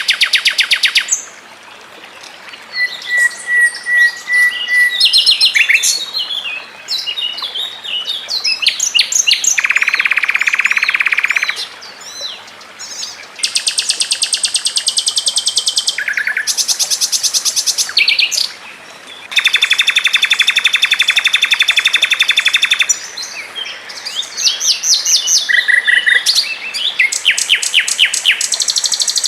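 Songbird song, fast and dense: long rapid trills of evenly repeated notes, each held for a few seconds, alternating with quick, varied chirping phrases.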